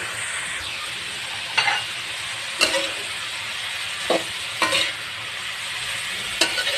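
Chopped banana blossom frying in a wok with a steady sizzle, stirred with a spatula that scrapes and knocks against the pan about six times.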